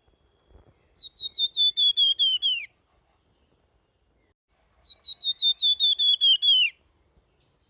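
Songbird of the kind Indonesian keepers call 'flamboyan' singing two phrases. Each phrase is a quick run of about nine high, flute-like whistled notes that drift slightly lower and end in a falling slur.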